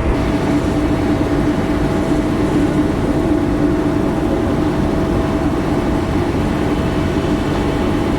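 Steady mechanical drone with a constant low hum and a fainter higher hum over it, typical of aircraft engine noise heard at an airport.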